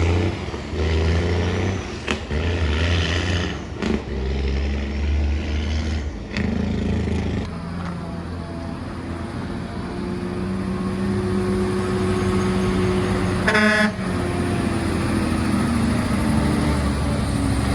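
Heavy truck engine running steadily under load, its pitch slowly rising partway through, with a short horn toot about fourteen seconds in.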